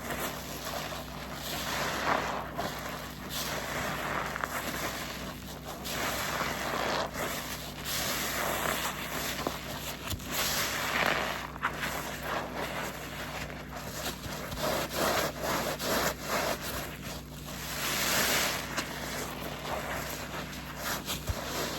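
A soapy waffle car-wash sponge being squeezed and wrung again and again, in irregular wet squelches a second or two long as detergent and foam are pressed out.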